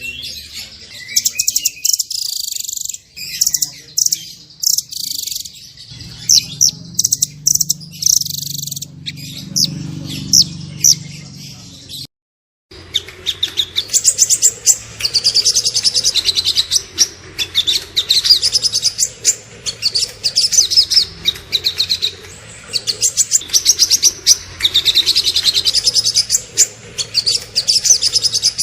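Small songbirds singing rapid, high-pitched chirps and trills in dense, fast bursts. The song cuts out completely for about half a second roughly twelve seconds in, then resumes even denser.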